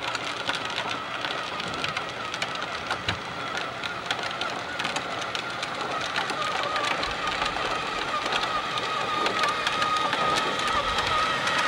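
A small motor whining at a steady pitch, with irregular clicking and rattling throughout.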